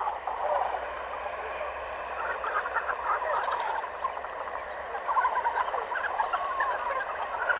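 A dense chorus of many small animals calling at once, with short overlapping calls.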